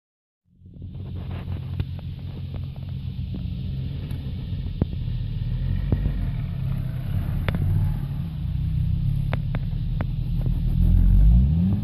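Vauxhall Corsa hatchback's engine running under load as the car climbs a steep grass slope, starting abruptly about half a second in and growing louder near the end, with a few sharp clicks.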